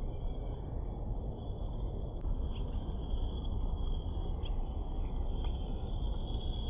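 Insects chirring steadily with a few short chirps, over a continuous low rumbling noise.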